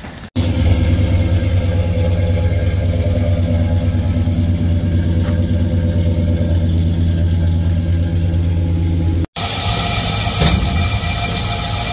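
LS V8 engine idling steadily through a newly fitted big exhaust, a deep even rumble at the rear of the car. It cuts off abruptly about nine seconds in, and the last stretch comes from the engine bay, brighter and with more high-pitched mechanical noise.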